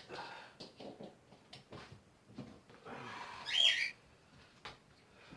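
A cockatiel gives one short, loud whistled call about three and a half seconds in, against faint scattered clicks and knocks.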